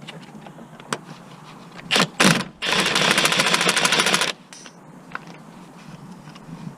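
Cordless impact wrench: two short blips of the trigger, then a burst of rapid hammering lasting under two seconds as it works a fastener.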